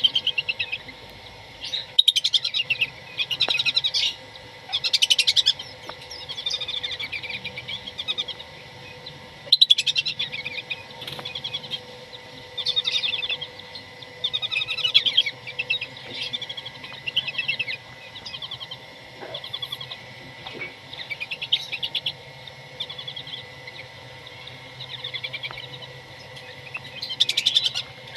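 Whistling ducks giving repeated bursts of high, rapid trilling chirps, one burst every second or two, over a faint steady hum.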